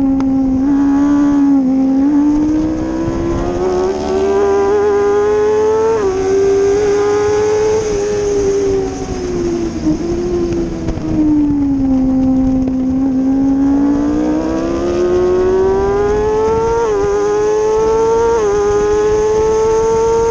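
Onboard sound of a Kawasaki ZX-6R 636's inline-four engine at full throttle on a racetrack, with wind rushing past. The pitch climbs through each gear with quick drops at the upshifts, about a third of the way in and twice near the end. In the middle the engine falls away as the bike slows for a corner, then pulls hard again.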